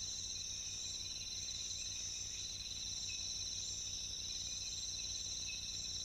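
Steady chorus of rainforest insects: a continuous high trilling at two pitches, the lower one finely pulsed.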